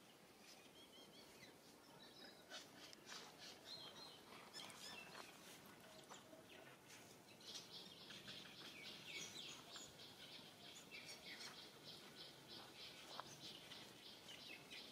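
Faint bird chirps, scattered short notes at first, then a fast run of chirps for several seconds from about halfway through.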